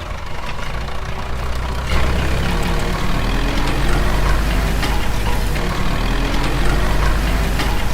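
Motor of a miniature DIY bulldozer running with a steady low drone, with scattered small clicks.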